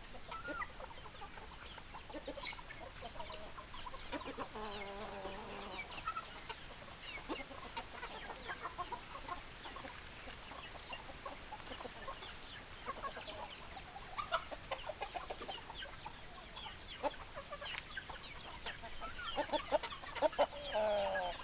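A flock of chickens clucking, many short calls overlapping, with a longer drawn-out call about four seconds in and another near the end.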